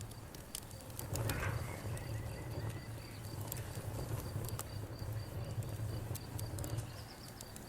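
Wood fire crackling, with scattered sharp pops over a low steady rumble and a steady high pulsing tone running underneath.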